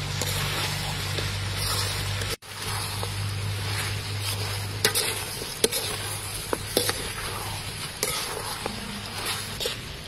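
Chicken wings frying with onions in a wok, a steady sizzling hiss, while a metal spatula stirs them, clicking and scraping against the pan now and then.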